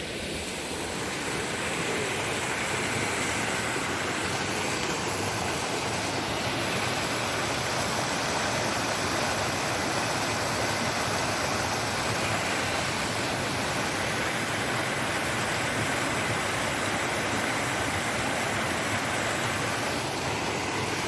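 Creek water rushing, a steady, even hiss of flowing water that grows a little louder over the first couple of seconds and then holds.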